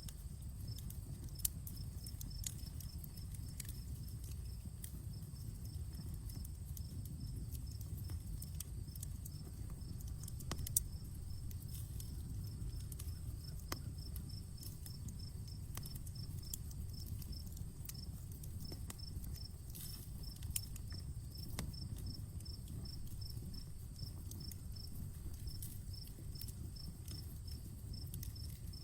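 Outdoor wood campfire crackling, with scattered sharp pops over a low, steady rumble of the flames; the loudest pops come about a second and a half in and about eleven seconds in. Insects chirp high and evenly, several times a second.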